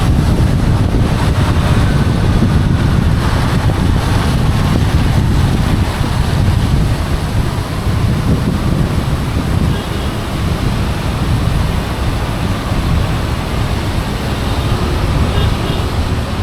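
Wind buffeting the microphone outdoors: a loud, steady low rumble that flutters constantly, with no distinct events.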